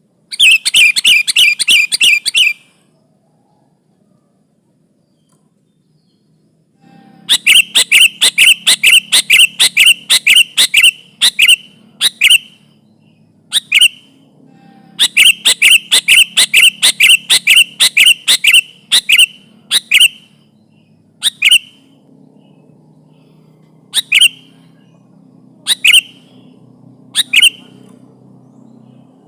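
Sooty-headed bulbul (kutilang) giving rapid runs of sharp, harsh repeated notes, about six a second, in bursts of a few seconds, then single notes spaced a second or two apart. This is the agitated 'ribut' chatter used as a lure call for trapping bulbuls. A faint low hum lies underneath from about a quarter of the way in.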